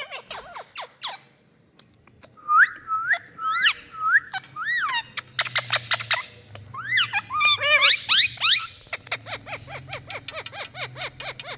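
Parrots calling: quick sharp chirps, then a row of repeated whistles that rise and fall, then louder calls and a fast string of chirps toward the end.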